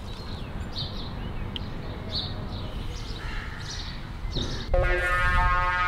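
Birds chirping now and then over a low outdoor background rumble. Near the end a much louder, drawn-out buzzy call or tone cuts in and carries on.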